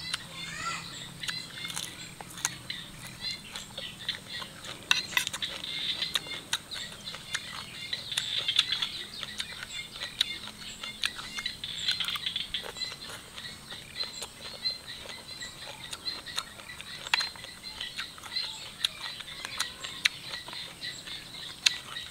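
Eating sounds: a person chewing papaya salad with noodles, with many short crisp clicks and smacks throughout. Birds chirp in the background, busiest around the middle.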